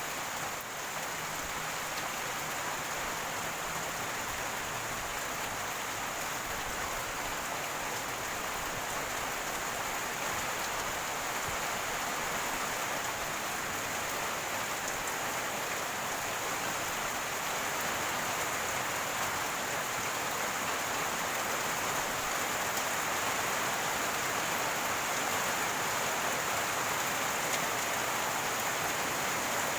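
Steady rain falling, an even wash of drops with no breaks, growing slightly louder toward the end.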